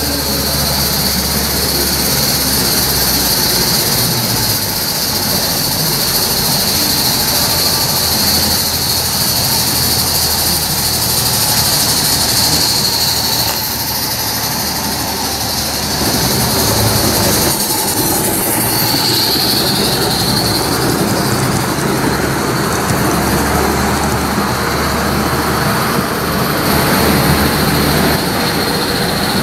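A train running on rails: a steady rolling noise with a high whine that bends in pitch a little past halfway.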